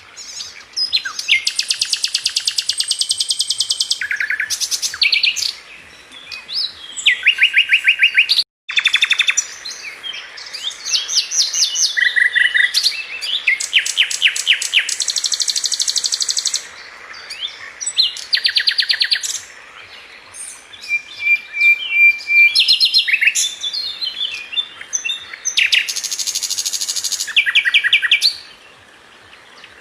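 A flycatcher known to Indonesian bird-keepers as 'sikatan London' singing a varied, high-pitched song of fast repeated-note trills and chattering phrases, broken by short pauses. The sound cuts out completely for a moment about a third of the way in.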